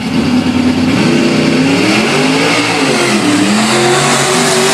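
A mud-racing truck's engine revving hard, its pitch climbing and dropping several times as the throttle is worked.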